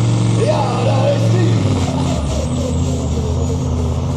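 Heavily modified Supersport pulling truck's engine running loud and steady, its note dropping to a lower pitch about a second and a half in.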